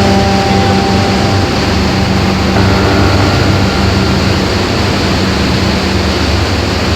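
Boat engine running steadily with a low, even hum, under a constant rush of water and wind noise.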